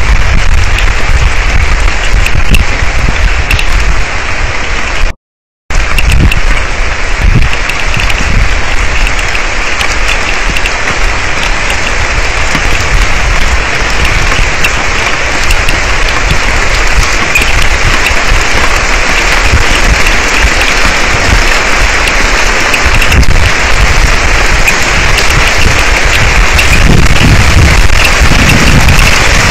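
Heavy thunderstorm rain pelting down, with wind buffeting the outdoor camera's microphone. The sound cuts out completely for about half a second roughly five seconds in, and a low rumble grows stronger near the end.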